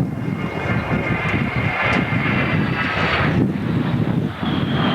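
A-10 Thunderbolt II's twin TF34 turbofan engines: a high-pitched jet whine over a low rumble as the jet maneuvers. The whine drops away about three seconds in, and a slowly falling whine comes back near the end.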